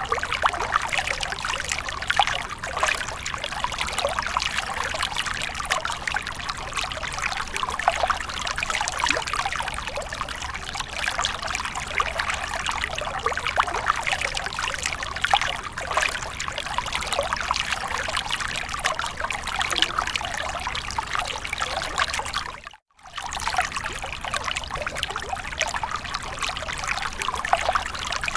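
Running water splashing and trickling steadily, a dense patter of small splashes. It cuts out for a split second about four-fifths of the way through, then carries on.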